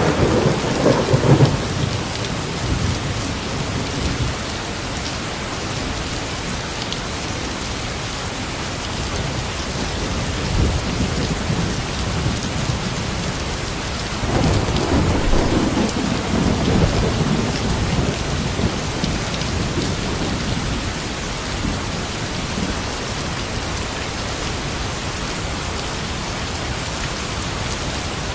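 Steady rain falling, with low rolling thunder rumbling near the start and again about halfway through.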